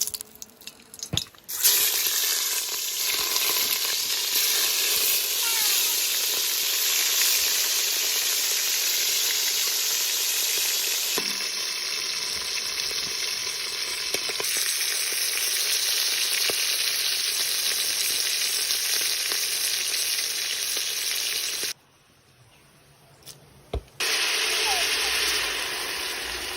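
Food sizzling in hot oil in a cooking pot, a steady loud hiss that cuts off suddenly about 22 seconds in and comes back about two seconds later.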